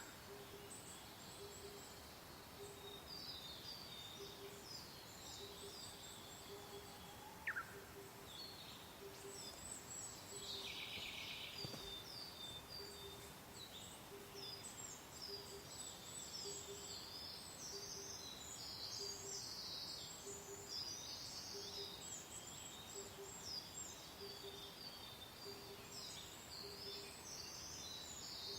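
A dense chorus of songbirds chirping and trilling over a soft, steady hiss of gentle wind. Under them, a low note repeats steadily at a bit under two a second. Two short downward-sliding whistles come near the start and about seven seconds in.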